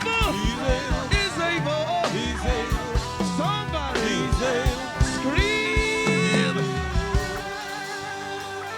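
Live band music: a pitched lead line bending up and down over a steady drum beat. Near the end the drums drop out, leaving held chords.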